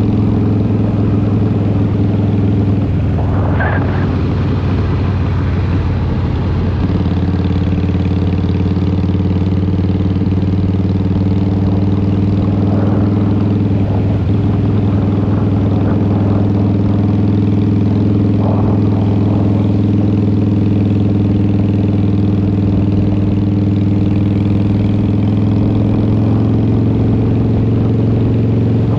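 2003 Harley-Davidson Fat Boy's Twin Cam 88 V-twin running through Vance & Hines exhaust, cruising at a steady engine speed. The engine note shifts briefly a few seconds in, then holds steady again.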